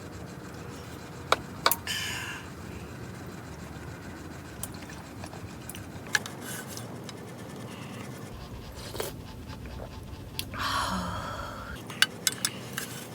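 Two breathy exhales about a second long, one near the start and one near the end, with scattered small clicks and taps, over a steady background hiss.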